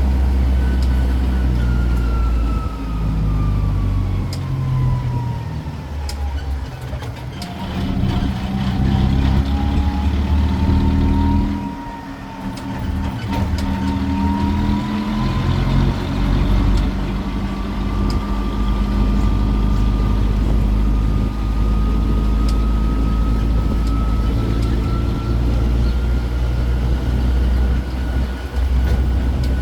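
Engine of a road tourist train running, with a thin whine that falls in pitch over the first several seconds, then slowly climbs again as it picks up speed.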